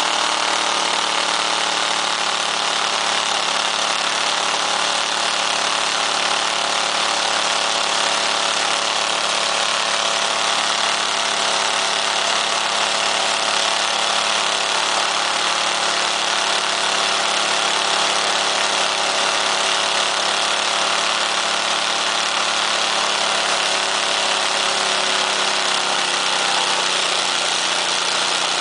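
Demolition derby car engine running steadily while being run to destruction, its pitch wavering slightly near the end.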